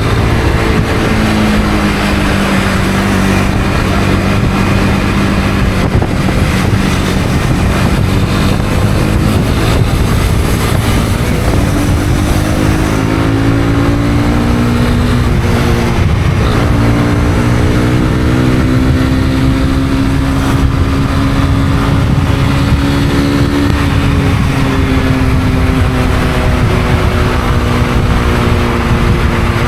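Honda CB250R's single-cylinder engine running while riding, its note holding steady, then climbing, dropping back once and climbing again with throttle and gear changes, over steady wind and road noise.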